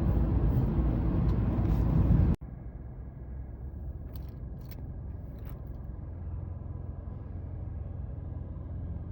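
Mazda 3 cabin noise while driving: a loud, steady low rumble of road and engine that cuts off abruptly about two seconds in. It gives way to a much quieter low hum with a faint steady whine and a few soft clicks.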